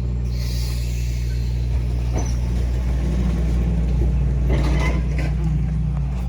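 Engine idling with a steady low drone, and from about halfway a truck's engine note rises and holds as the truck works at backing and turning.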